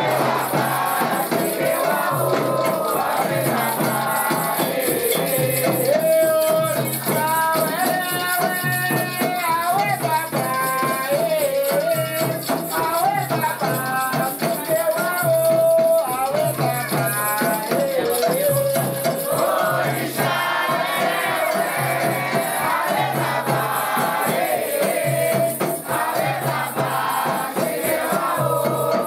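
Candomblé ritual music: a group singing a chant over shaken rattles and a steady low beat.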